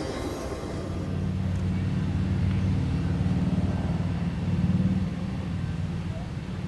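Low steady rumble of a diesel freight train, a little louder around the middle.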